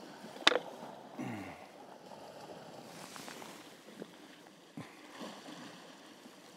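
Sea washing steadily at a rocky shore, with one sharp click about half a second in and a couple of faint knocks later.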